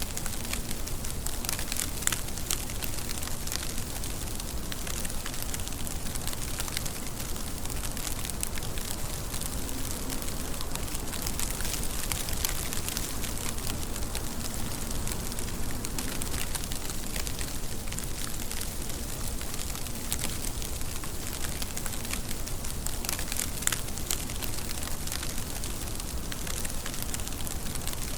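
Steady rainfall with many fine drop impacts patting on a surface, over a low, even hiss.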